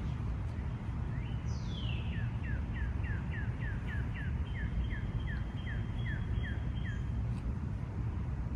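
A songbird singing a long run of quick, repeated down-slurred whistled notes, about two or three a second, over a steady low outdoor rumble.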